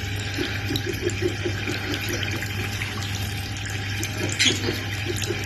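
Water running steadily from a tap, with a quick run of short, soft pitched notes about half a second to a second and a half in.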